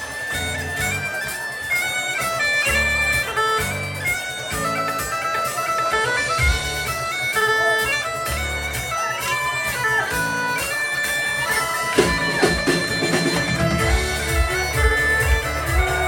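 Live Irish traditional session music: a quick melody line of held, reedy notes over strummed guitar chords, with a steadier rhythmic beat coming in near the end.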